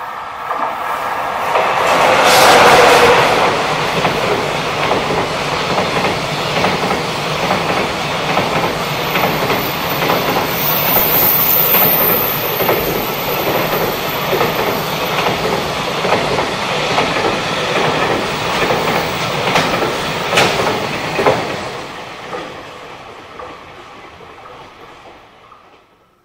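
A JR Freight EF66 electric locomotive hauling a container freight train passes close by. The locomotive is loudest about two to three seconds in, followed by a long run of wheels knocking over the rail joints as the container wagons go by. The sound dies away over the last few seconds as the train's end passes.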